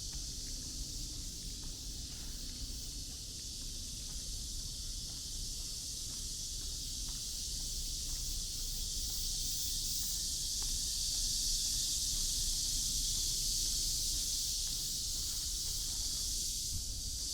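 Steady chorus of insects, a continuous high buzzing that swells slightly partway through, over a low hum of city traffic.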